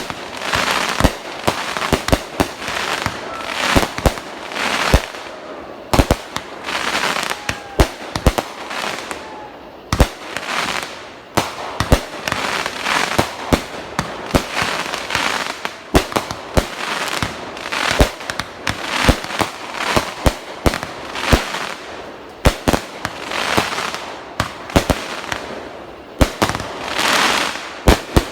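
Fireworks going off: a steady barrage of sharp bangs at uneven intervals, with hissing and crackling between them and a few faint whistles.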